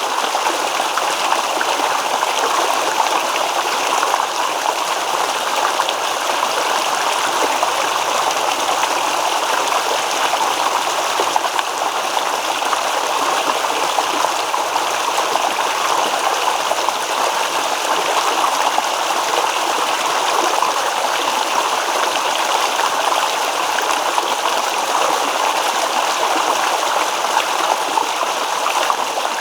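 Shallow stream babbling and trickling over stones, a steady rush of flowing water without pauses.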